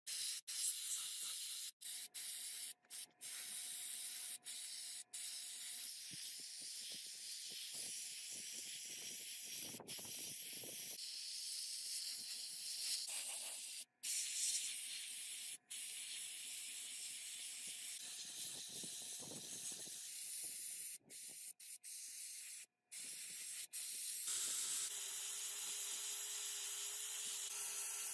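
Steady high hiss of spraying, broken by many brief, sudden gaps, with a faint steady tone underneath that drops lower near the end.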